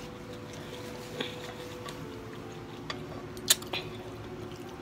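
Chewing and wet mouth sounds of someone eating, with a few short sharp clicks, the loudest about three and a half seconds in, over a steady faint hum.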